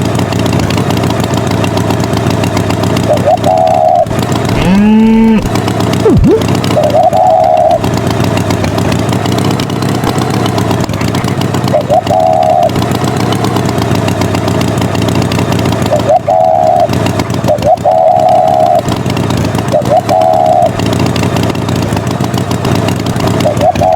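A tractor engine running steadily and loudly, with short higher tones breaking in every few seconds and one rising tone about five seconds in.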